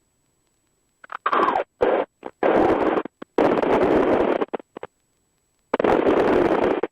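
Wind blasting a headset microphone in high winds: loud bursts of rushing noise that the intercom's squelch switches on and off abruptly, with dead silence between, about five bursts in all.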